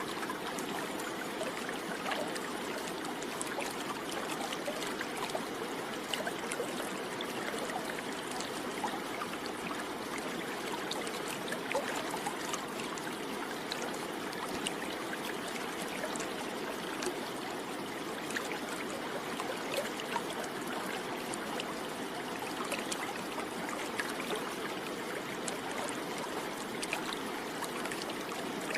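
Steady flowing water, like a stream, with faint scattered ticks over it.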